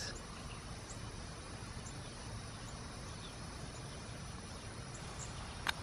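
Faint outdoor background with scattered short, high chirps from a parent bird calling to its fledgling, and one sharp click near the end.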